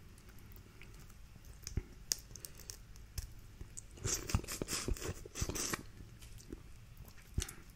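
Close-miked eating sounds from a seafood boil: chewing and handling of shellfish, with scattered sharp clicks and a dense run of crackling about four seconds in that lasts nearly two seconds.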